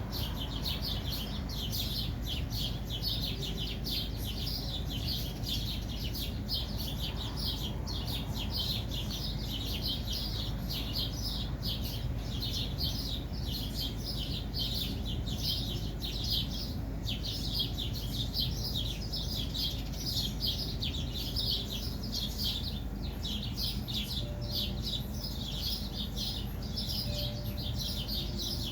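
Birds chirping in a continuous stream of quick, high calls, several a second, with a steady low hum underneath.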